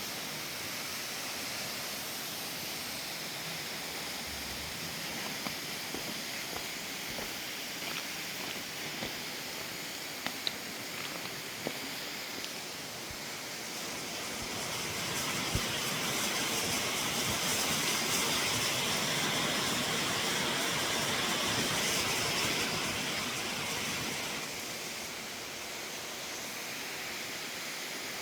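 Steady rushing of a waterfall or creek, an even hiss that grows louder and brighter for several seconds in the middle before easing back, with a few faint ticks.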